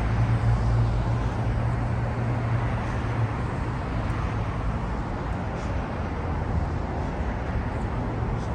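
Steady outdoor rumble of road traffic and city noise, with a deep hum that weakens about three seconds in.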